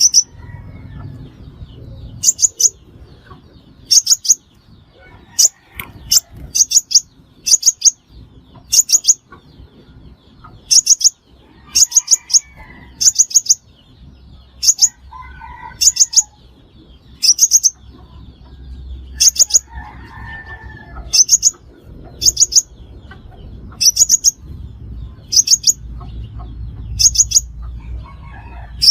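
Sunbird calls: loud, quick bursts of two to four high, sharp notes, repeated about every second and a half. This is a sunbird call recording made for luring birds into traps.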